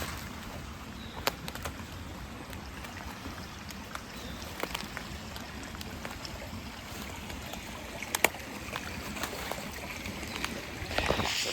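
Steady rushing of a running stream, with scattered small clicks and snaps and a brushing rustle near the end.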